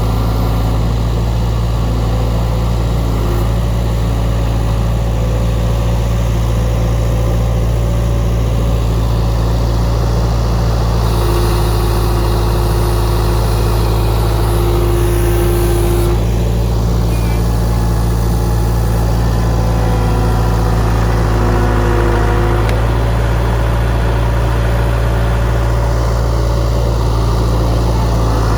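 Case skid steer's diesel engine running steadily, a continuous low drone. A higher whining tone comes in about eleven seconds in and fades out again a few seconds later.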